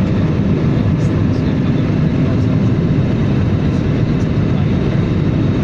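Passenger airliner's engine and airflow noise heard inside the cabin: a steady low rumble.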